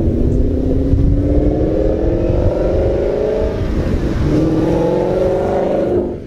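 Ford Mustang GT's Coyote 5.0 V8, breathing through long-tube headers, an X-pipe and Roush axle-back mufflers, accelerating hard. The exhaust note climbs for about three and a half seconds, dips briefly at a gear change, then climbs again before dropping off near the end.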